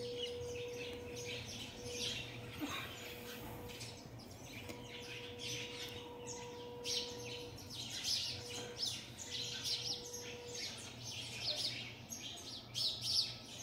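Small birds chirping over and over, a busy run of short, high chirps that thickens in the second half, with a faint steady hum underneath.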